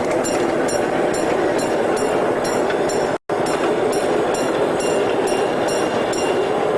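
Ridable miniature railway train running on its track: a steady rumble of wheels on rail with a regular high ticking about two and a half times a second. The sound drops out completely for a moment about three seconds in.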